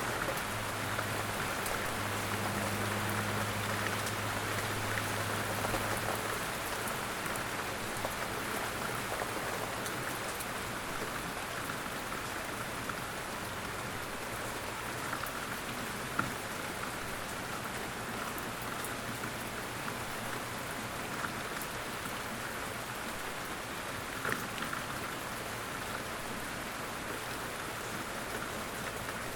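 Light rain falling steadily in woodland, with a few separate louder drips standing out. A faint low hum sits under it for the first few seconds.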